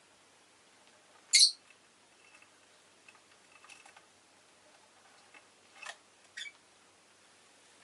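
Rosy-faced lovebird giving a single loud, sharp, high chirp about a second and a half in, then two shorter, fainter chirps near the end.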